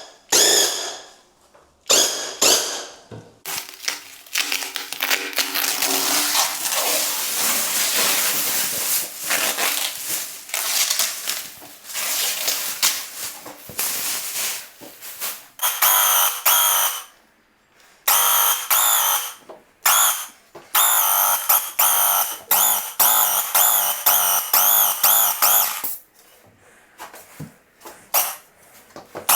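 Graco QuickShot cordless airless paint sprayer spraying primer and undercoat: the pump runs with a long hiss of spray, then starts and stops in short bursts of a high, wavering whine.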